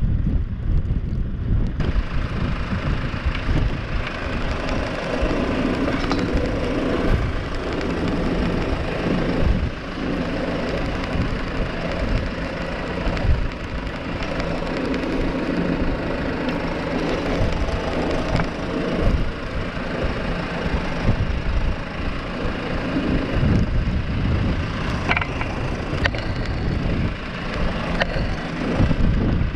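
New Holland T5 tractor's diesel engine running steadily under work, with a few short knocks and cracks now and then.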